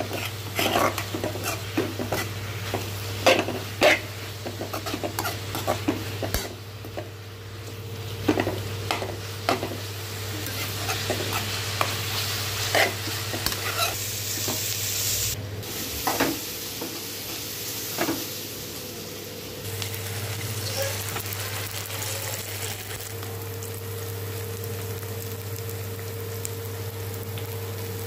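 Onions, curry leaves and green chillies sizzling in hot oil in a pan while a steel spoon stirs and scrapes them, clicking and knocking against the pan. The knocks are thickest in the first several seconds, and the sizzling runs steadier later, with a faint steady hum underneath.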